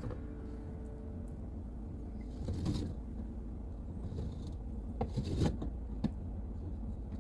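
A few light clicks and short scrapes of containers being handled and set down, spread through the stretch, over a steady low hum.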